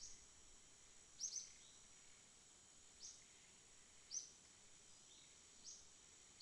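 Faint night ambience: a steady high insect trill, with a short, slightly falling high chirp repeating about every one to one and a half seconds.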